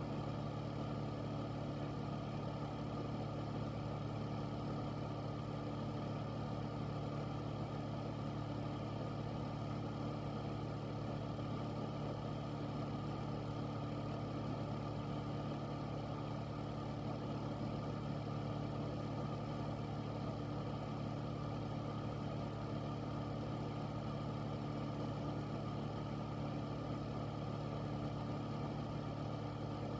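Air filter's fan running steadily: a constant low hum under an even rush of moving air, with no change in speed.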